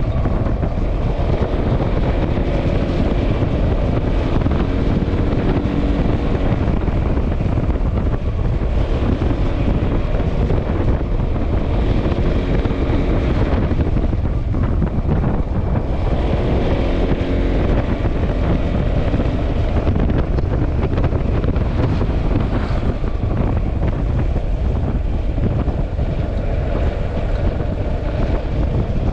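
Wind buffeting the microphone on a moving Yamaha XMAX scooter, with the scooter's single-cylinder engine running underneath. The engine's pitch rises and falls a few times as the throttle changes.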